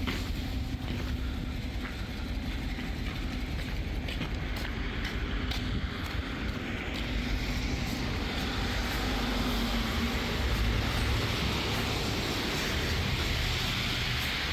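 Plow truck driving, its engine and road noise giving a steady low rumble, with a louder hiss building from about halfway.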